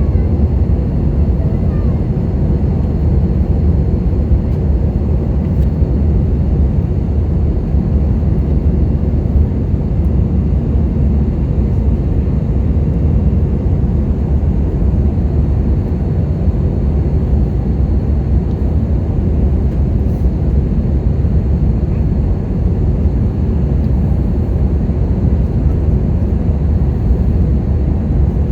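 Airliner cabin noise in flight: the steady low rumble of jet engines and rushing air, unchanging in level, with a faint high whine.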